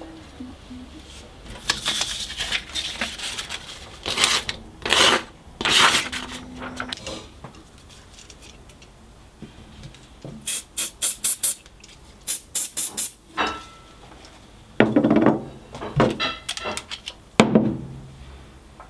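Workbench handling noises: scrapes and knocks, with two quick runs of four or five sharp clicks about halfway through and a couple of heavier knocks near the end.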